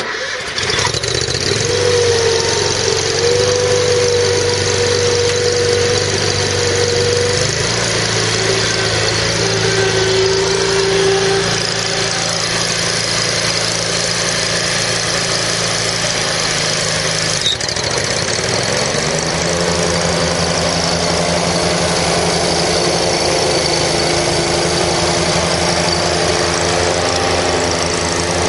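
John Deere Z830A zero-turn mower's 27 horsepower Kawasaki V-twin engine starting up and running steadily. The engine note shifts about seven seconds in, then drops briefly and climbs again about eighteen seconds in.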